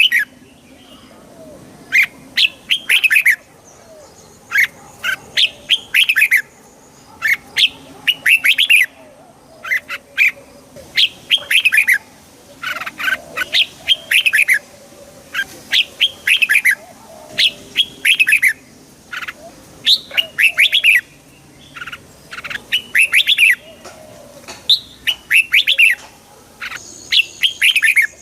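Red-whiskered bulbul singing: short, bubbly phrases of a few quick notes, repeated over and over with brief pauses between them.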